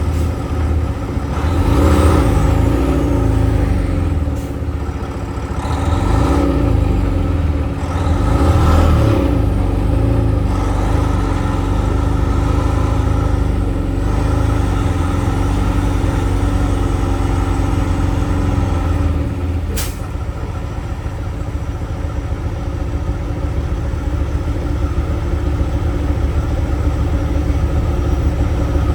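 Logging truck's diesel engine running steadily, with a few louder swells of noise early on, and a single sharp click about twenty seconds in.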